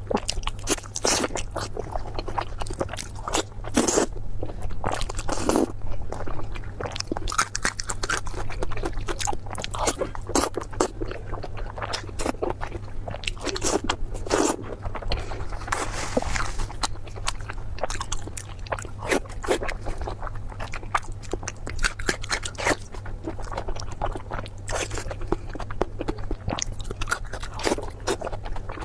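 A person eating close to the microphone: a run of irregular crunchy bites and wet chewing, with a steady low hum underneath.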